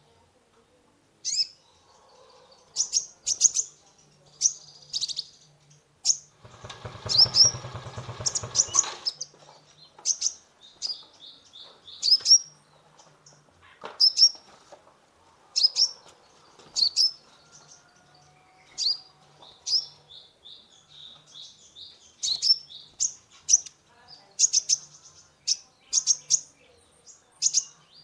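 Kolibri ninja sunbird singing: sharp, high chirps and short trills in quick bursts, recurring every second or so, the song used as a 'pancingan' to stir other birds to sing. About seven seconds in, a louder rasping buzz lasts roughly two seconds.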